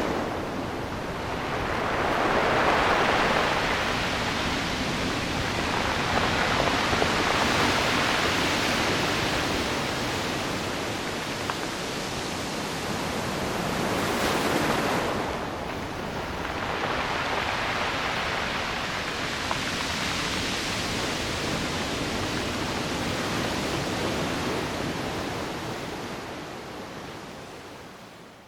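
Sea waves breaking and washing on the shore, the surf swelling and ebbing every several seconds and fading out near the end.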